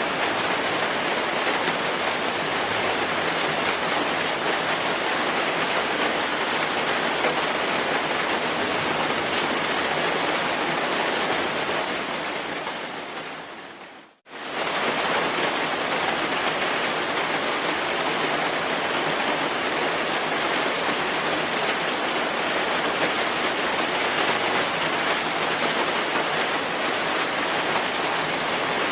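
Steady rainfall, an even hiss of drops. About halfway through it fades away to near silence over a couple of seconds, then comes straight back.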